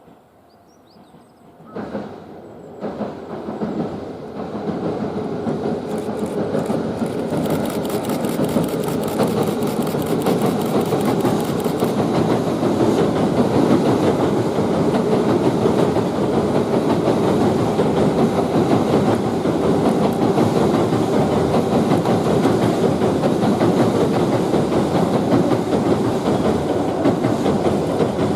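Tobu 9000-series electric multiple-unit train running past at speed, its noise coming in sharply about two seconds in, building, then holding loud and steady. For several seconds early on a rapid, regular high ticking sits on top.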